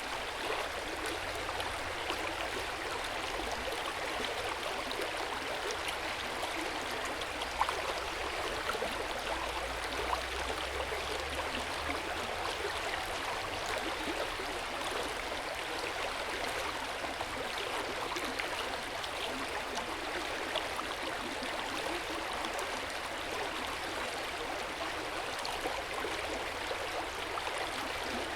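Hot-spring water pouring steadily into an outdoor stone bath, an even splashing and gurgling flow with small droplet splashes scattered through it.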